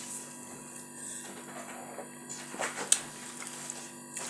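Quiet eating sounds, with a few short clicks near the three-second mark, the sharpest just before it, over a steady low hum.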